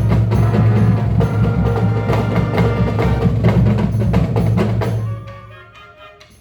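Marching band music: winds holding a loud low chord over busy percussion strokes, then dropping away about five seconds in to a much softer passage with a few held notes.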